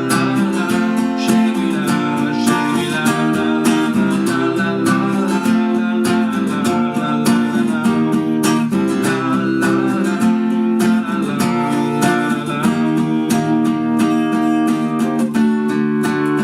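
Acoustic guitar strummed in a steady rhythm of chords, an instrumental passage without singing.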